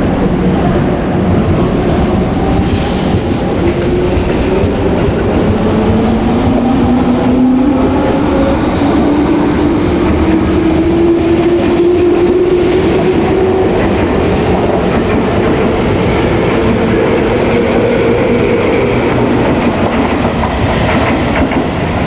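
Tobu 10030 series electric train pulling away: the traction motors hum and rise steadily in pitch as it gathers speed, with wheels clicking over rail joints.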